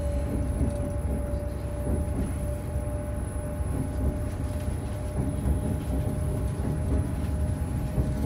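Inside a train carriage pulling away from a station: the steady low rumble of the moving train, with a constant hum running through it.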